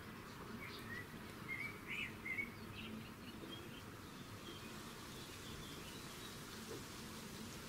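Small birds giving a cluster of short chirps in the first two and a half seconds, then a few fainter calls, over a steady low outdoor background hiss.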